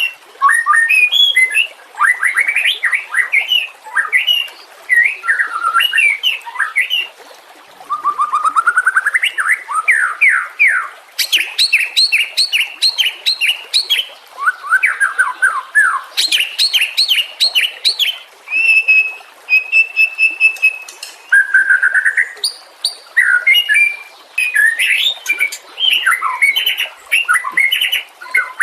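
White-rumped shama singing a long, varied song: loud whistled phrases that sweep up and down, rapid trills and bursts of fast repeated notes, broken by brief gaps, with a pair of level held whistles about two-thirds of the way in.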